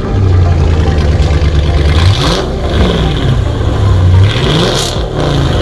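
Dodge Charger's 5.7 Hemi V8 running with open straight pipes in place of its mufflers: a steady idle with two quick revs, about two seconds in and again near the end.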